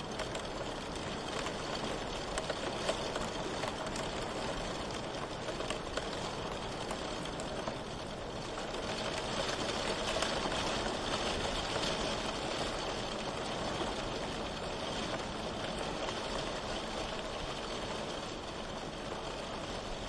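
Steady rain with faint scattered drips, swelling a little heavier about halfway through before easing back.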